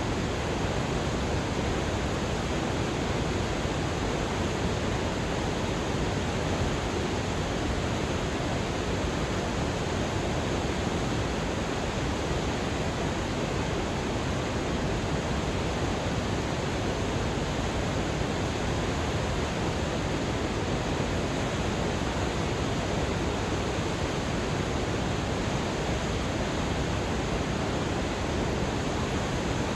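Waterfall: water falling in a steady, unbroken rush, even in level throughout.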